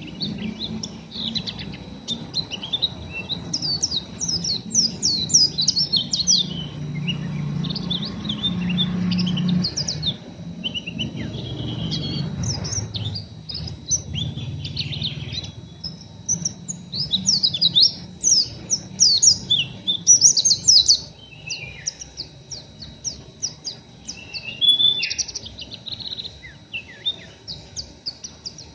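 White-eyes (pleci) twittering in a coarse, rapid chatter: runs of short, high, downward-slurred chirps that come in clusters throughout. A low background rumble underlies the first half and fades out about halfway through.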